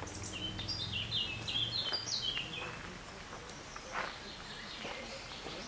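A songbird singing one phrase of quick, short, high notes for about two and a half seconds, followed by a few faint taps.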